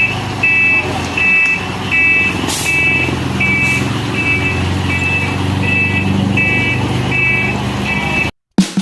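Concrete mixer truck's reversing alarm beeping steadily, roughly two beeps a second, over the truck's engine running; both cut off suddenly near the end.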